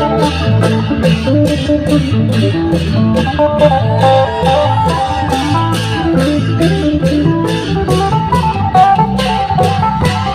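Klong yao long-drum procession music: deep drum beats under a steady run of sharp cymbal strikes about three a second, with a plucked-string melody stepping over the top.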